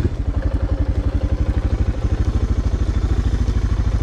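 Suzuki DR dual-sport motorcycle's single-cylinder four-stroke engine running steadily at low revs, an even beat of about a dozen pulses a second.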